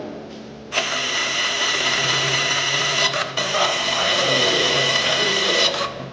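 A power tool's motor running with a high whine. It starts abruptly about a second in, dips briefly twice midway, and cuts off just before the end.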